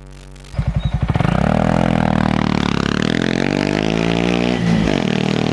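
Honda Monkey 125's single-cylinder engine through a Takegawa aftermarket exhaust, starting abruptly about half a second in and accelerating, its note rising steadily for about three seconds before dropping near the end.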